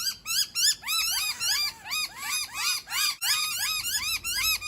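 Several noisy miners giving rapid, repeated rise-and-fall alarm calls, about five notes a second and overlapping: a group mobbing a cat.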